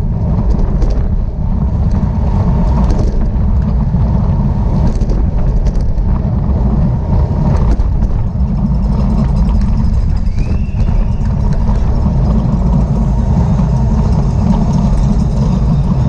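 Heavy wind rumble buffeting the microphone of a camera carried at speed in a bicycle road race, steady throughout, with a few faint clicks and a brief squeal about ten seconds in.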